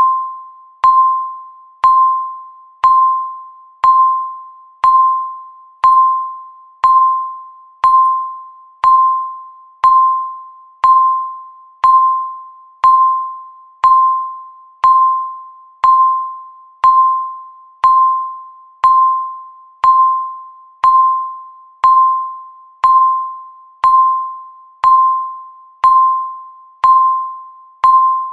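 Electronic timer beep: a short tone of about 1 kHz once every second, each fading away before the next, marking the seconds of a countdown.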